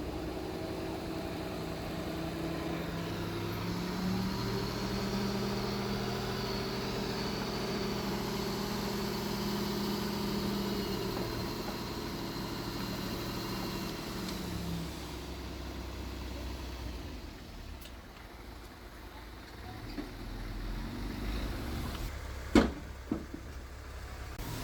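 A heavy diesel engine runs steadily. Its pitch steps up about four seconds in, holds, and then eases off after about fifteen seconds. Near the end there is one sharp metallic clank, followed at once by a smaller one.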